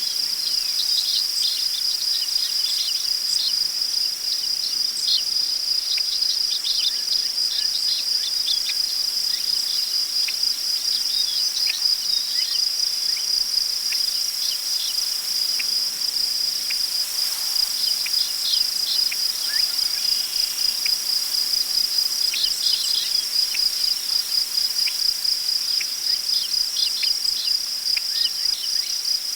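Crickets chirping in a steady, fast-pulsing high trill, with many short bird chirps scattered over it.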